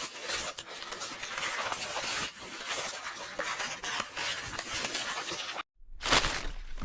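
Paper pages rustling and crackling continuously with many small clicks. Near the end it cuts off abruptly, then a louder sudden rasp of paper follows.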